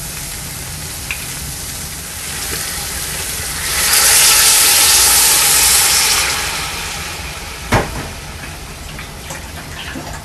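Chicken and ketchup frying in an aluminium pot, with a loud sizzling hiss for a couple of seconds in the middle as a little water is poured into the hot pan. A single knock on the pot comes near the end.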